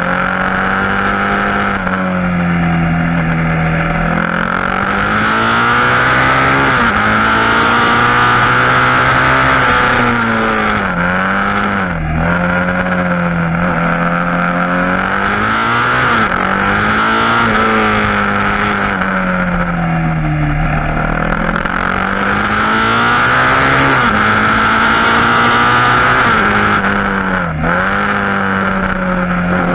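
KTM Duke 690's single-cylinder engine through an Akrapovic exhaust, under way on a winding road. Its pitch climbs and falls again and again, with brief sharp dips where the gears change.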